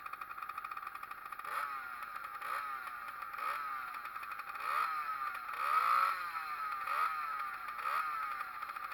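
Pit bike's Zündapp two-stroke engine idling, then blipped on the throttle about once a second, seven times in all, the pitch rising and falling with each rev. The biggest rev comes about six seconds in, and the engine drops back to idle near the end.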